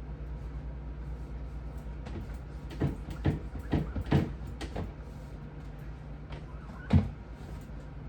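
A run of knocks and clacks as refrigerator parts are handled, several close together in the middle and one louder knock near the end, over a steady low hum.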